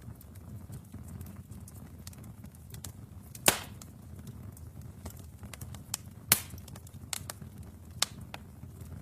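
Wood fire burning in a fireplace: a low rumble of flames with steady small crackles, and loud pops of burning logs about three and a half and six seconds in, with a smaller pop near the end.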